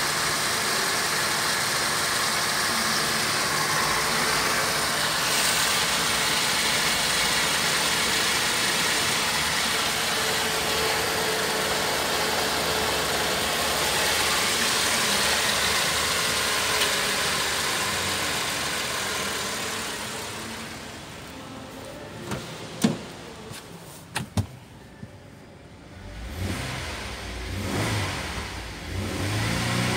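Holden Commodore 3.6-litre Alloytec V6 running steadily, heard close up under the bonnet. About twenty seconds in it turns fainter, with a few sharp clicks and knocks. In the last few seconds it is revved up and down.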